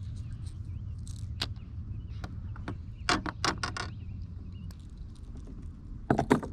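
Sharp clicks and knocks from handling fishing gear and a landed fish on a kayak: a quick run of about five knocks about three seconds in and two more near the end, over a steady low hum, with faint bird chirps.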